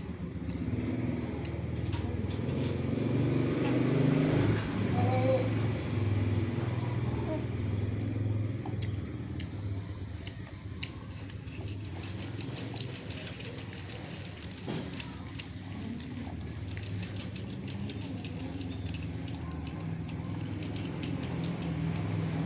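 Low steady hum of a motor vehicle engine running, swelling about four seconds in, with light scattered clicks in the second half.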